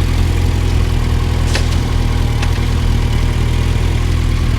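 Suzuki GSX1250FA's inline-four engine idling steadily after a push-start on a flat battery. Two faint short clicks come in the middle.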